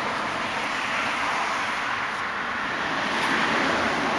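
Steady background hiss with no rhythm or distinct events.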